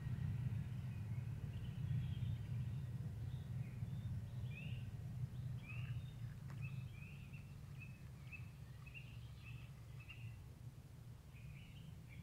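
A small songbird singing, a string of short, quick chirps that get busier about halfway through, over a steady low rumble.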